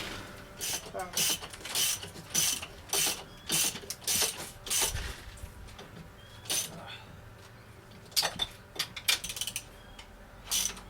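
Ratchet spanner clicking through a quick run of strokes, roughly one and a half a second, then a few spaced-out strokes, as bolts are run in on a gearbox crossmember adapter.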